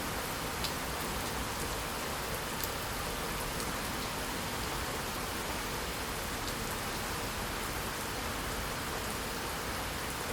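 Steady rain falling, an even hiss with now and then the sharper tick of a single drop.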